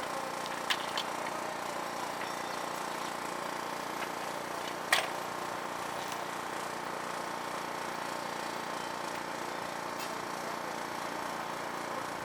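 Steady mechanical hum of a running engine or machine at the worksite. A couple of faint sharp clicks come under a second in, and one louder metallic knock about five seconds in.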